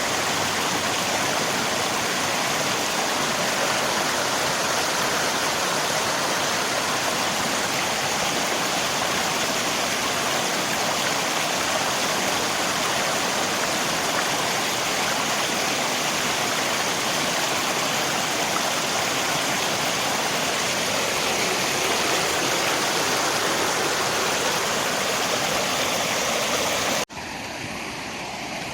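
Steady rushing of river water mixed with rain. Near the end it cuts suddenly to a quieter, softer water sound, an edit join in the recording.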